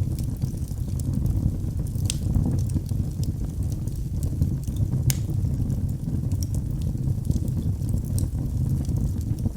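Wood fire burning in a fireplace: a steady low rumble of the flames with scattered crackles and pops, two sharper pops about two and five seconds in.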